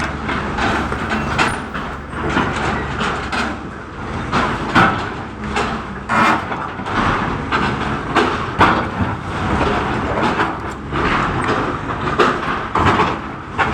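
JCB backhoe loader's diesel engine running steadily, with repeated irregular clanks and scrapes as it digs.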